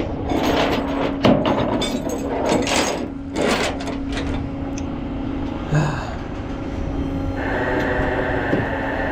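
Tow truck running with a steady hum while tow chains and hooks clank and rattle against the frame, sharp metal clatters in the first few seconds and a thump near the middle. A steady high whine comes in later on.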